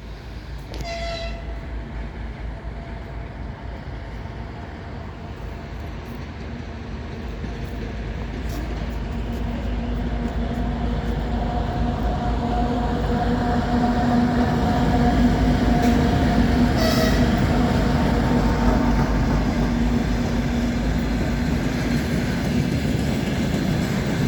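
2M62 twin-section diesel locomotive's two-stroke diesel engines running as it approaches and passes with a train of repair platforms and wagons, growing louder through the first half. A brief horn sounds about a second in and again about two-thirds of the way through.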